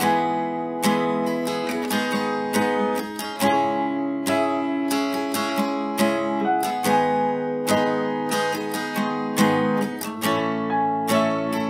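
Acoustic guitar playing, strummed chords with a steady rhythm and no singing.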